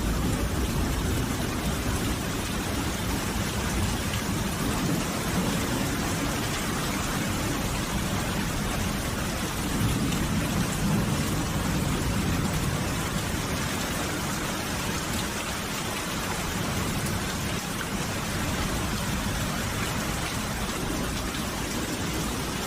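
Steady rain falling, an even hiss with a heavy low rumble underneath that swells slightly about ten seconds in.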